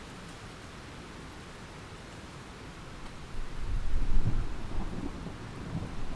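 Thunderstorm: steady rain hiss, then a roll of thunder that starts a little past halfway, swells to a deep rumble and keeps rumbling.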